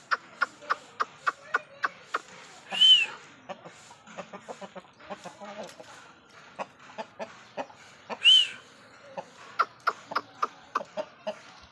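Aseel chickens clucking in quick runs of short clucks, with two loud, short high-pitched calls that rise and fall, about three seconds in and again about eight seconds in.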